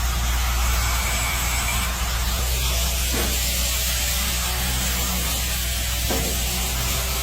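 Automatic charcoal grilling machine running: a steady hiss of meat sizzling over the charcoal on top of a low, even motor hum, with a few faint ticks.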